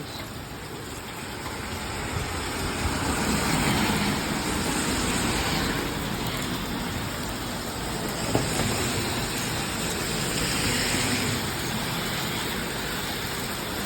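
Steady hiss of heavy rain, swelling and easing a couple of times.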